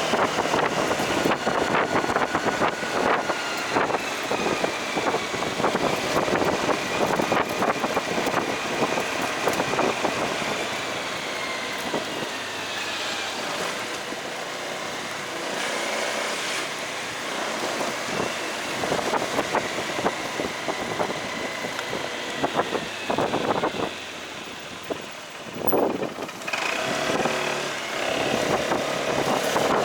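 Motorcycle riding through road traffic: engine running with a whine that slowly rises and falls, over steady road and wind noise. It drops quieter briefly about three quarters of the way through.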